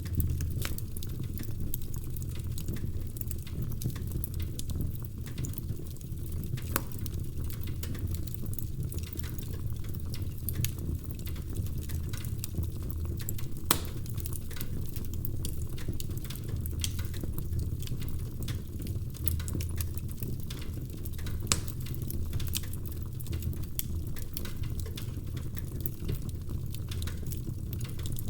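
Wood fire crackling: a steady low rumble of burning logs, with frequent small snaps and a few louder pops.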